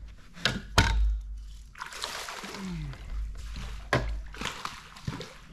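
Water splashing and sloshing beside a fishing boat, with a few sharp knocks, two of them about a second in and one near the four-second mark.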